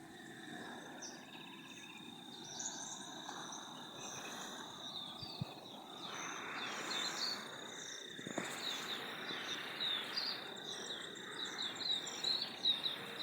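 Rural outdoor ambience: a steady high-pitched insect drone with birds chirping, the quick chirps growing busier near the end. A soft rushing sound grows louder about six seconds in.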